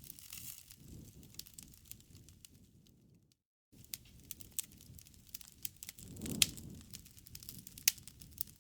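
Campfire of burning wood crackling, with scattered sharp pops over a low rush of flame. The sound cuts out to silence for a moment a little past three seconds in, and a louder pop comes about six and a half seconds in.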